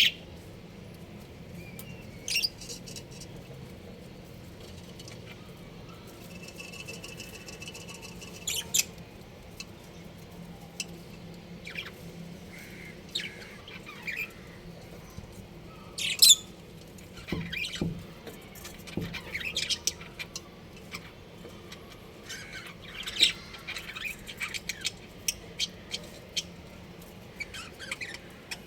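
Budgerigars chirping in short, scattered high calls, with a held chirping note about seven seconds in and the sharpest chirps around the middle and in the last third, over a faint steady low hum.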